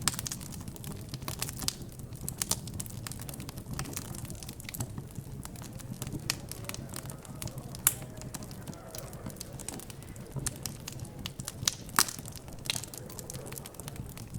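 Wood fire crackling, with frequent sharp pops and a few louder snaps, over a low hum of background chatter.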